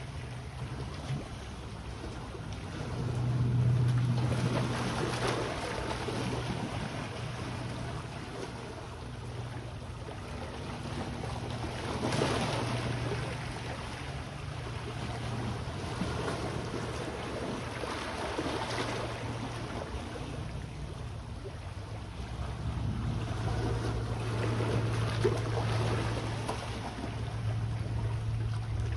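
Small waves washing in on the shore, a swell of surf every six to eight seconds, over a steady low drone and some wind on the microphone.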